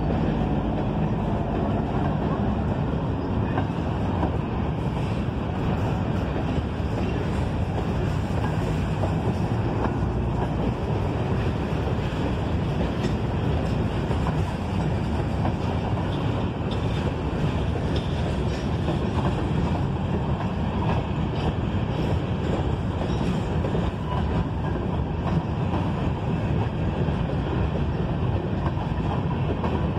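Freight train of covered hopper cars rolling past: a steady rumble of steel wheels on rail, with scattered clicks.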